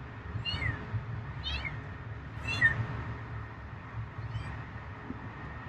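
An animal calling repeatedly: short, high calls that fall in pitch, about one a second, the loudest near the middle. A steady low rumble runs underneath.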